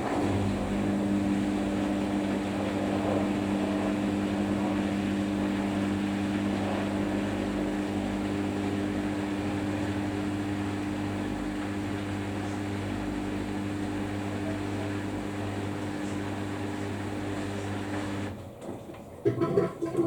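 Samsung washing machine running near the end of its Daily Wash 30 cycle with a steady, even hum that cuts off suddenly about 18 seconds in.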